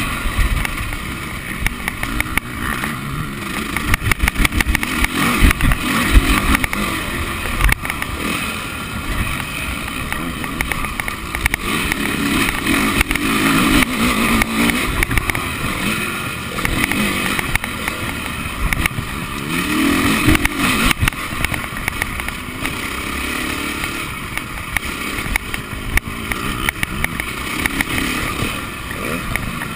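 Honda motocross bike engine heard up close from the handlebars as it is ridden hard round a dirt track, its note rising and falling as the rider works the throttle and gears. Sharp knocks come through now and then.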